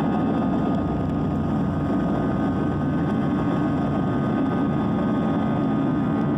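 Airbus A320 engine noise heard from inside the passenger cabin: a steady, loud roar with a thin, even whine above it.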